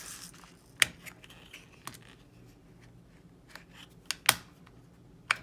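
Several sharp, separate clicks and taps of small model-kit parts and packaging being handled on a tabletop. The loudest are two close together a little past four seconds in.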